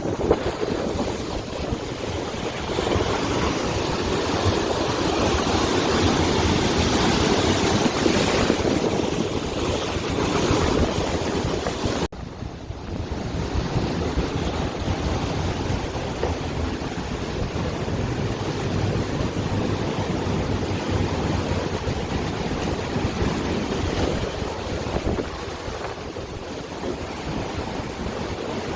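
Rough surf and rushing water with wind buffeting the microphone, a steady wash of noise that breaks off at a cut about twelve seconds in and resumes a little quieter.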